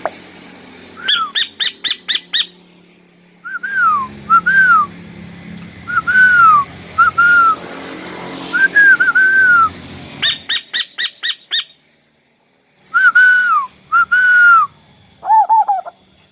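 Asian koel calling: quick bursts of sharp, rapid notes alternating with runs of short, arched whistled notes, each note rising and then falling in pitch.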